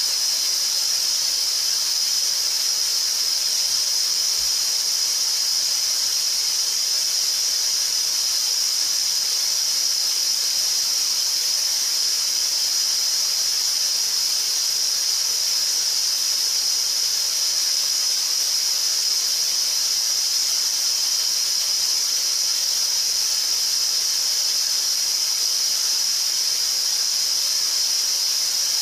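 A steady, electronically generated colored-noise track of the kind played for EVP ghost-voice listening: an even hiss with its energy high up, strongest in a band a little above 4 kHz, and little low end.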